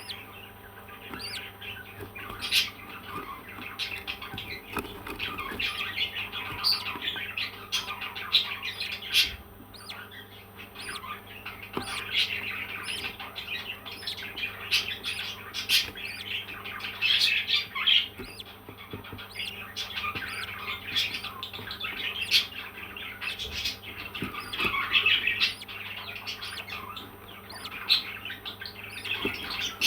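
Parrots chattering: many quick overlapping chirps with sharper squawks mixed in, without pause.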